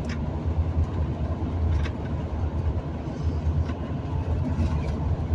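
Steady low rumble of engine and tyre noise heard from inside a vehicle driving along a highway.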